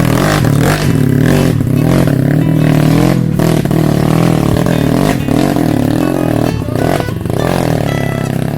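Motorcycle engine running loudly, its revs rising and falling, with some clattering knocks.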